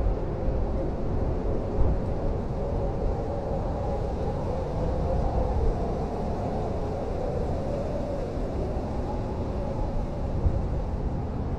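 Blizzard wind blowing steadily: a deep rumble with a wavering, whistling howl, rising in brief gusts about two seconds in and near the end.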